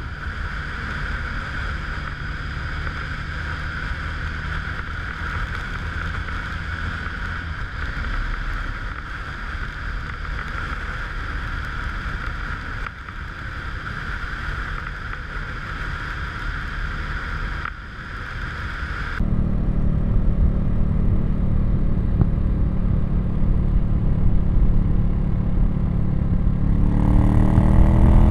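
Ducati Monster 1100 EVO's air-cooled L-twin engine running on the stock exhaust while riding. For the first part it sounds thin, with a steady high band and little bass; about 19 seconds in it cuts abruptly to a much fuller, deeper engine sound from a different microphone. Near the end the engine revs up, its pitch rising.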